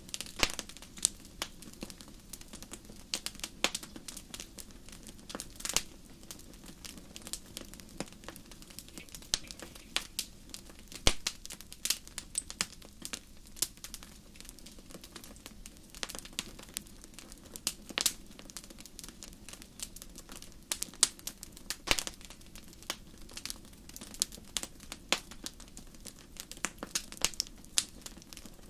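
Wood fire crackling in a fireplace, with irregular sharp pops and snaps over a soft steady low rumble.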